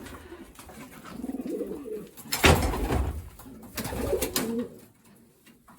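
Racing pigeons cooing, a few low coos, with a sudden loud clatter about two and a half seconds in.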